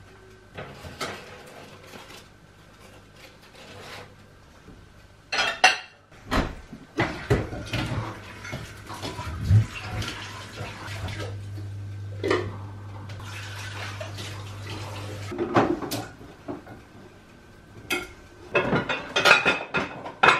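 Kitchen clatter: dishes and cutlery clinking and knocking at irregular moments. In the middle, for about eight seconds, a steady hum with hiss runs underneath.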